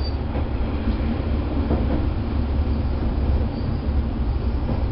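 Diesel railcar running along single track, heard from on board: a steady low engine drone and wheel rumble, with a few faint clicks from the rails.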